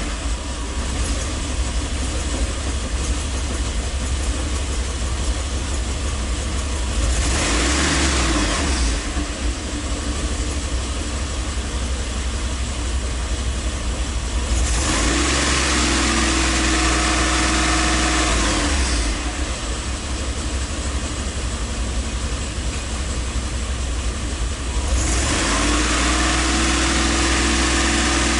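1983 Mercedes-Benz 380SL's 3.8-litre V8 running. It sits at idle, and its speed is raised and held three times: briefly about seven seconds in, for several seconds around the middle, and again near the end.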